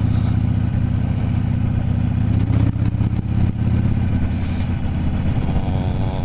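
Motorcycle engine running while riding, heard through a GoPro taped up on the bike, a steady low engine note that turns uneven with a few knocks about halfway through.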